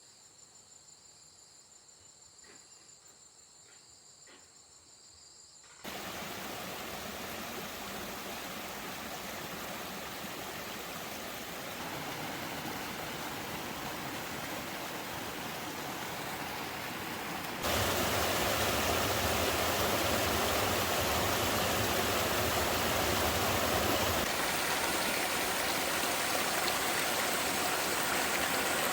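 Faint outdoor ambience with a few soft high chirps for about six seconds, then a sudden cut to a steady, even rush of water, which jumps louder again at a second abrupt cut about eighteen seconds in.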